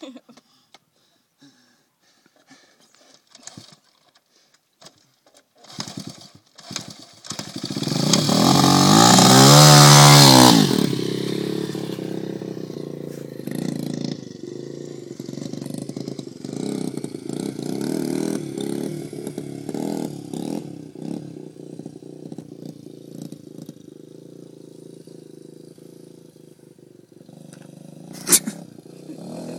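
Dirt bike engine revving hard as the bike comes close and passes, loudest about eight to ten seconds in. It then keeps running farther off, the revs rising and falling as it rides around. A sharp click comes near the end.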